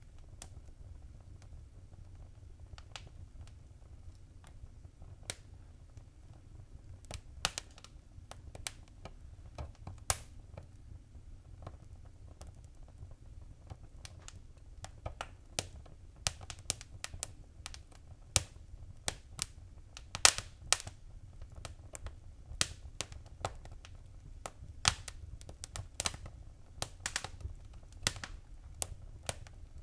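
Wood fire crackling in a fireplace: sharp pops and snaps, sparse at first and coming more often in the second half, over a low steady rumble.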